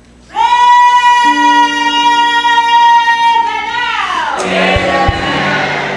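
A voice sings one long, high held note for about three seconds, then slides down into a fuller stretch of singing over held lower chords.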